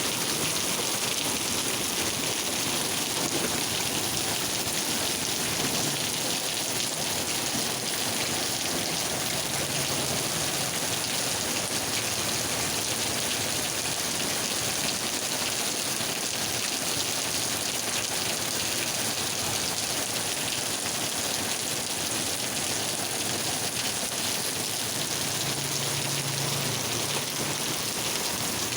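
Steady rain falling, an even hiss of drops on surfaces that holds at one level throughout.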